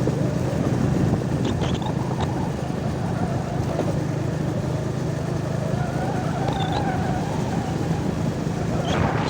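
A motor vehicle's engine running steadily while on the move, a continuous low rumble with road noise.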